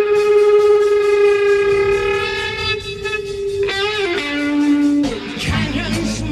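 Psychedelic rock instrumental break: a long sustained lead note, held for about three and a half seconds, bends down to a lower held note. About five seconds in, the full band with drums comes back in.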